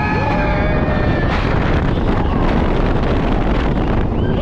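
Wind blasting over the microphone as a B&M dive coaster train speeds through its course after the drop, with a rider's held scream for about the first second and another starting near the end.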